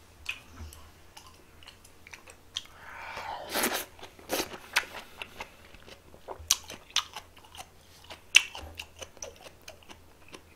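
A person chewing food close to a microphone, with many short, irregular crunching clicks and a louder burst of noise about three to four seconds in.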